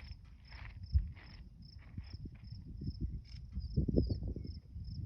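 An insect, cricket-like, chirping steadily in short high pulses, about four or five a second. Low thumps and rumbles underneath, a sharp one about a second in and a cluster near four seconds.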